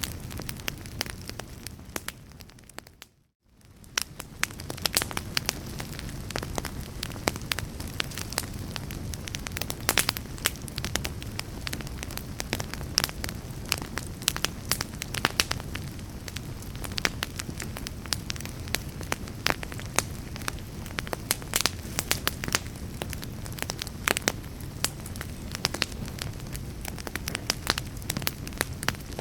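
Fireplace fire crackling: many small, sharp pops and snaps over a low, steady rush. About three seconds in it fades to near silence for a moment, then swells back up.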